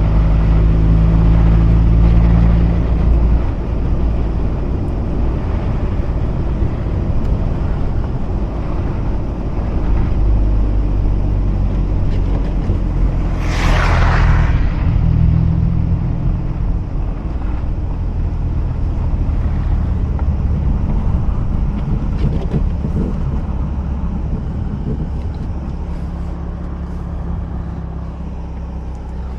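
Mazda RX-8 two-rotor rotary engine and tyre noise heard while driving on a snowy road, the engine note rising and falling with the throttle. About halfway through, a loud hissing rush lasts a second or two.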